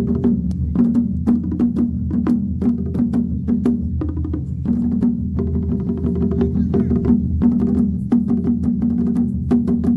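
Drum ensemble playing live: a dense, fast rhythm of sharp, wood-sounding strikes over a sustained low ringing tone.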